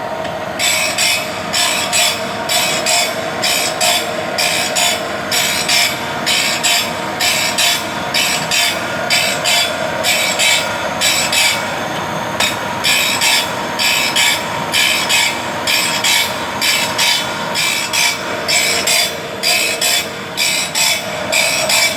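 Vollmer saw sharpening machine grinding a saw blade at its faster speed, the grinding wheel scraping each tooth in turn in short hissing strokes, about two a second, over the steady hum of its motor.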